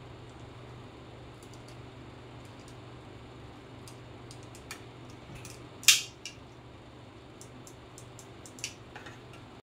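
Scattered small clicks and taps of tools and small parts being handled during a repair, with one sharp click about six seconds in and another near the end, over a steady low hum.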